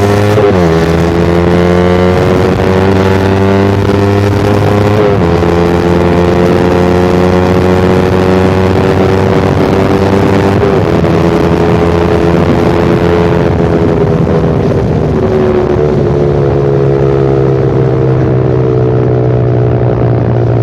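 Suzuki Satria FU Fi's single-cylinder four-stroke engine running very loud through a short Pro Liner aftermarket muffler with the dB killer removed, while riding. The pitch drops at four upshifts, about half a second, five, eleven and sixteen seconds in, and climbs steadily between them as the bike accelerates.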